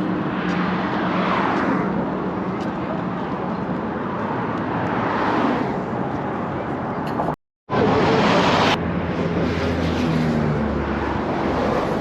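Outdoor traffic noise: vehicles passing on a road with a low engine hum, two cars swelling past about a second in and again around five seconds. The sound cuts out briefly midway and comes back louder.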